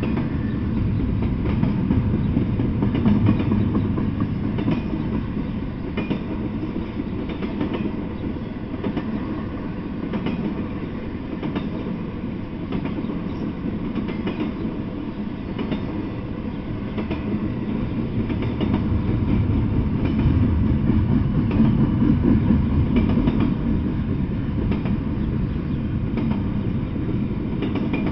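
Double-stack intermodal container freight train rolling past: a steady rumble of steel wheels on the rails, with repeated clacks as wheels cross rail joints.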